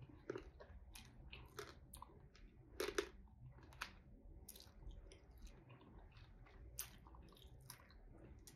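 Faint chewing of fish and crab from a pepper soup, with irregular short clicks and crackles, the loudest about three seconds in.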